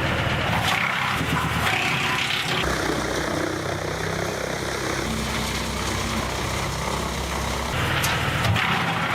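Heavy machinery running with a loud, steady engine and mechanical noise; the sound changes abruptly about two and a half seconds in and again near eight seconds.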